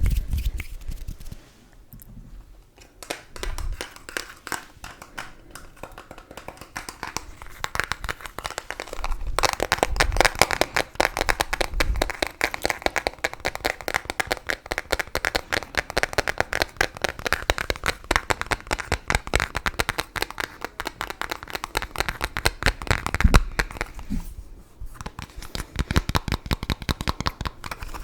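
Close-miked rapid crinkling and crackling, a dense run of tiny clicks that thickens about ten seconds in and thins out near the end, after a sharp knock at the very start.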